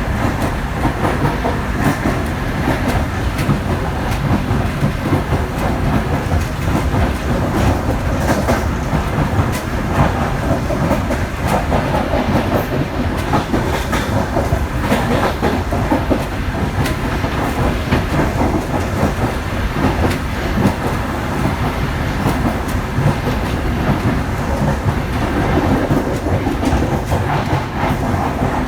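Passenger train running steadily on the rails, with a continuous rumble and the wheels clicking over rail joints.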